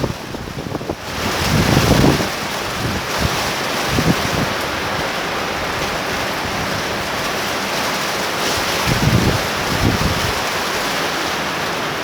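Torrential thunderstorm rain falling in a steady hiss, with gusts of wind buffeting the microphone twice.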